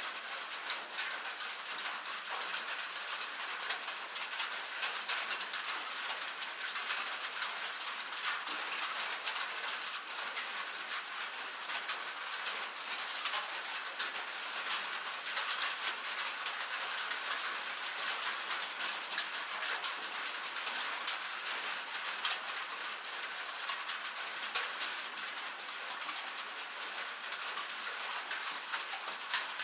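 Rain pattering steadily on a metal roof: a dense, even spray of tiny drop clicks with no deep sound under it.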